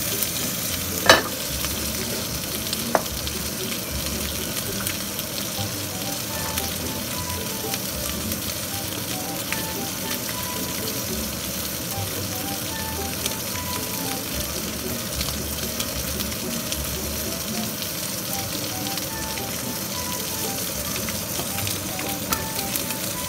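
Pancakes and kielbasa slices frying in a nonstick pan over a gas flame: a steady sizzle. About a second in there is one sharp clack, likely the pan set back down on the stove grate, and a smaller knock a couple of seconds later.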